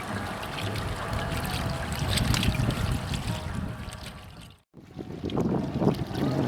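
Wind on the microphone over the low, steady drone of a passenger motor ship and its water. The sound cuts out abruptly about two-thirds of the way through, then comes back louder.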